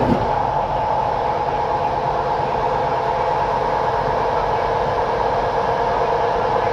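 Intercity train running out of the station: a steady rumble with a hum of several steady tones, holding an even loudness throughout.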